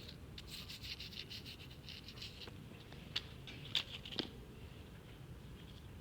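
Soft scratching and pattering, with a few sharp clicks about three to four seconds in.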